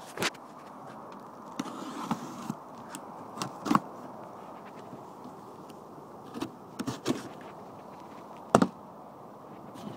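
Scattered knocks and clicks from airbag-suspension parts and packaging being handled, the loudest about three-quarters of the way through. A steady low hum runs underneath.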